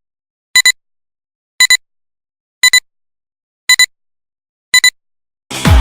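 Electronic beeper sounding short double beeps, five pairs about a second apart. Electronic dance music starts just before the end.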